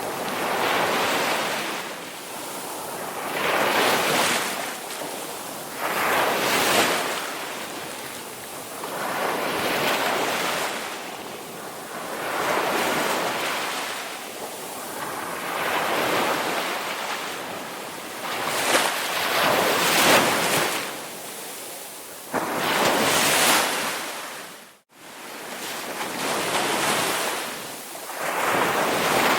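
Ocean waves surging and washing in, one swell of surf every few seconds. The sound cuts out for an instant near the end.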